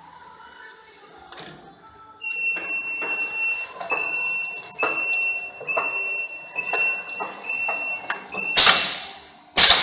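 Automatic EPDM gasket-inserting machine running: a high steady whine starts about two seconds in, broken by regular clicks about every 0.7 s. Near the end come two loud, short bursts of noise.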